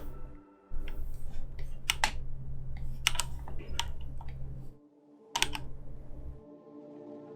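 Computer keyboard being typed on at a desk: a few sharp key clicks spaced a second or more apart, over a low steady hum that cuts out briefly about five seconds in.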